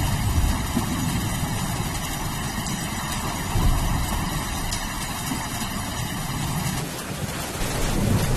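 Steady rain with a continuous low rumble of thunder. The sound changes suddenly about seven seconds in, and the rumble swells again near the end.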